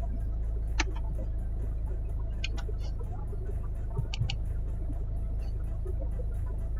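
A steady low mechanical hum with a few short sharp clicks: one about a second in, two at about two and a half seconds and two near four seconds.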